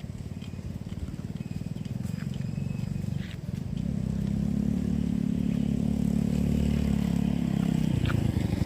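A small engine running with a low, rapid pulsing, growing louder partway through and cutting off near the end.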